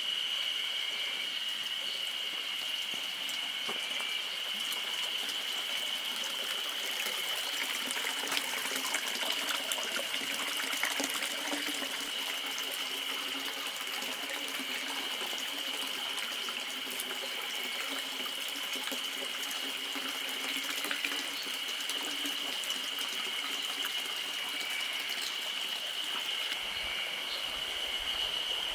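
Waterfall and stream water rushing and splashing in a steady, even wash of sound, with a steady high-pitched tone running through it.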